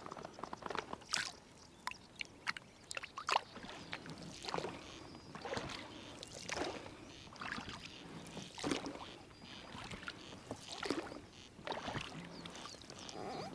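Water splashing and sloshing again and again, about once a second, with a few sharp knocks in the first few seconds.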